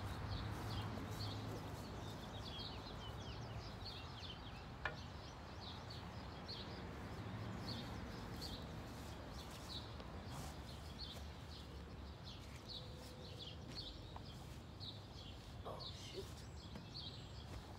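Small birds chirping repeatedly, short high chirps a few times a second, over a steady low background rumble. A single sharp click about five seconds in.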